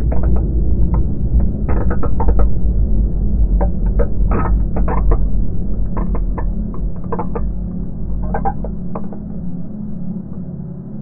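Eerie sci-fi ambient soundscape: a deep rumble and a steady low hum under irregular crackling clicks. The clicks thin out and the rumble fades near the end.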